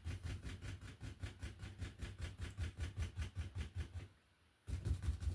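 A one-inch oil-painting brush tapped rapidly against a stretched canvas to lay in mist: an even rhythm of soft thumps several times a second. It breaks off for about half a second near the end, then starts again.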